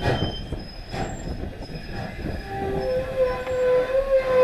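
Train rolling behind a steam locomotive, wheels knocking over rail joints with a thin squeal from the wheels. About three seconds in, the ex-Canadian National 2-6-0 No. 89's steam whistle starts a long steady blast.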